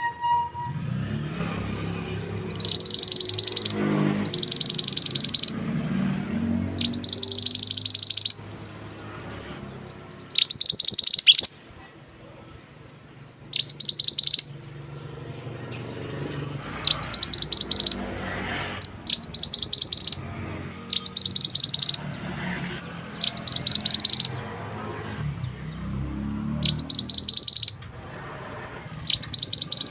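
Pied bushchat (burung mantenan) singing: loud, rapid, tightly rolled high trills about a second long, repeated every two seconds or so, with a couple of longer pauses.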